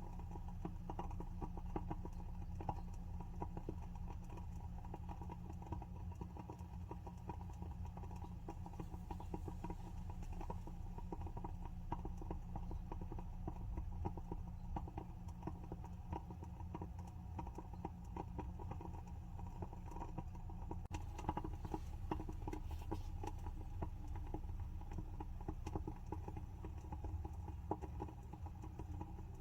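WoodWick candle's wooden wick crackling, a dense run of small irregular pops and ticks.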